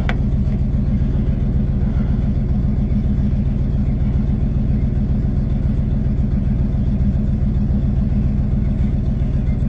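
Tow truck's engine idling: a steady, even low rumble that holds unchanged throughout.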